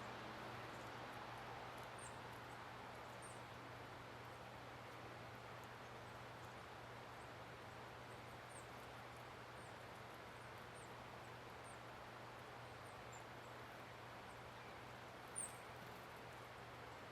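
Small birds at the feeders giving short, very high chip notes, scattered every second or so over a steady background hiss and low hum, with one louder chip near the end.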